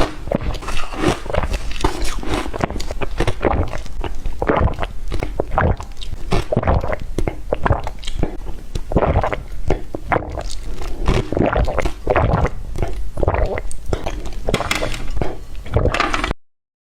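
A person chewing and crunching shaved ice that has been dipped in water, close to the microphone, as a fast irregular run of wet crunches. The sound breaks off into dead silence for about a second near the end.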